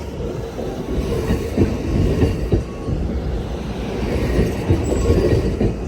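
Amtrak Coast Starlight passenger train rolling slowly into the station: a steady low rumble of wheels on rail with irregular clanks and knocks.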